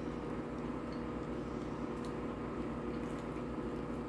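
A person biting into and chewing a hamburger, with soft, wet mouth sounds and a few faint clicks. A steady low hum runs underneath.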